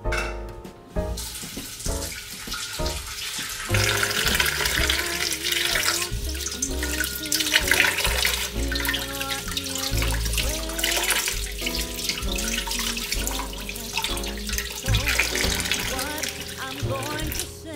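Water running and splashing into a stainless steel bowl in a kitchen sink while a sweet potato is rubbed clean by hand, starting about a second in. Background music with a bass line plays throughout.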